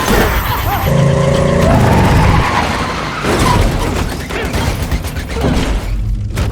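Action-film car-chase sound mix: car engines running hard and tyres skidding, with music underneath. A short steady tone sounds about a second in.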